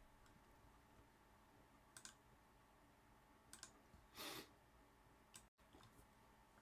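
Near silence: room tone with a few faint clicks and a short soft noise about four seconds in.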